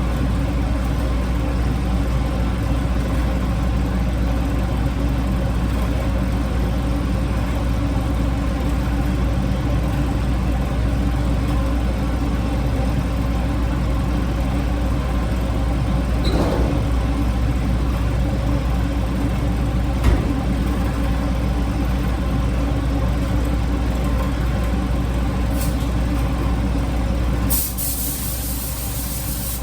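A steady low machine hum. Near the end a strong high hiss cuts in and the hum drops in level.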